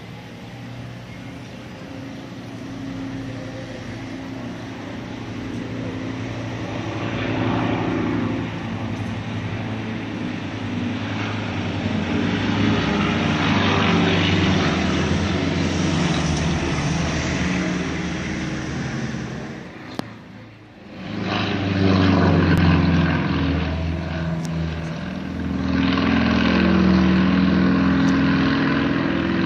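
Propeller engines of aerobatic light planes flying overhead. The engine sound builds over the first half, dips sharply for a moment about two-thirds of the way through, then surges back loud.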